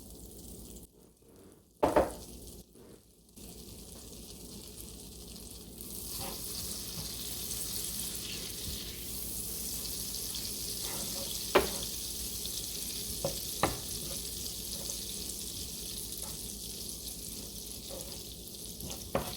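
Garlic and butter sizzling in a pan of chicken grease. The sizzle grows steadier and louder about six seconds in, with a few sharp knocks of a utensil against the pan.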